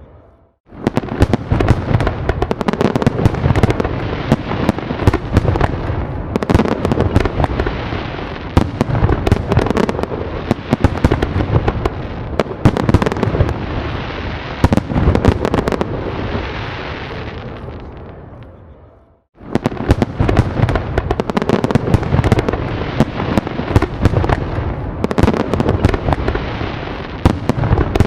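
A fireworks display: a dense barrage of overlapping bangs and crackles. It drops out briefly just after the start, fades away from about 16 seconds in to a short gap, then starts again just as dense.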